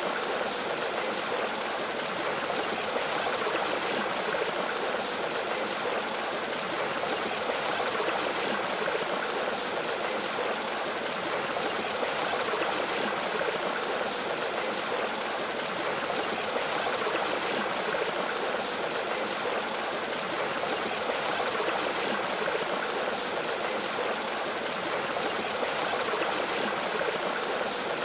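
Mountain stream flowing over a small waterfall: a steady, even rush of water.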